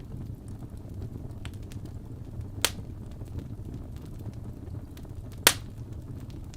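Fireplace fire crackling, with a few faint ticks and two sharp pops, one a little over two and a half seconds in and a louder one about five and a half seconds in, over a low steady rumble.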